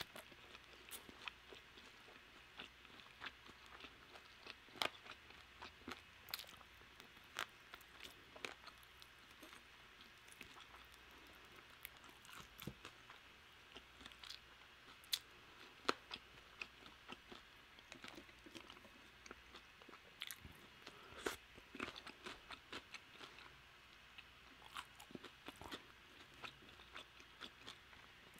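Close-miked chewing of Korean fried chicken: faint, irregular crisp crunches and small wet mouth clicks, a few each second.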